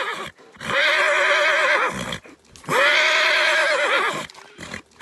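Horse neighing: two long whinnies, each about a second and a half, with a quavering pitch, then a few short sounds near the end.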